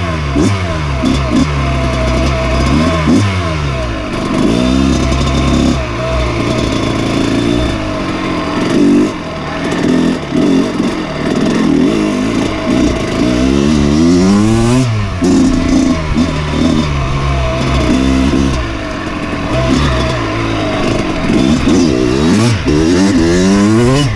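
Dirt bike engine running under load, its pitch rising and falling again and again as the throttle is opened and closed and the gears change.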